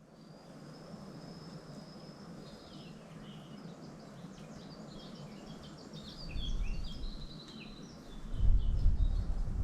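Birds singing: a long high whistle, then a run of quick chirps, over a steady background hiss. Low rumbles come about six seconds in and again, louder, near the end.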